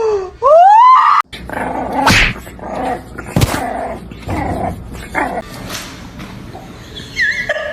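A pet's loud drawn-out cry rising in pitch, then after a cut a stretch of lower animal noises with a few sharp knocks.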